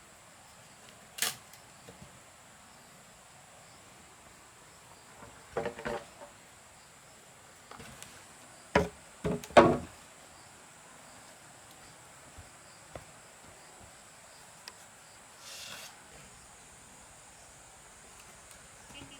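Scattered wooden knocks and clatter: one sharp knock about a second in, a short rattle around six seconds, and the loudest knocks in a group between about nine and ten seconds. A steady high-pitched insect drone runs underneath.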